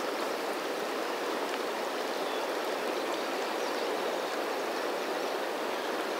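Fast-flowing water of the South Fork Snake River rushing steadily, an unbroken even wash of sound.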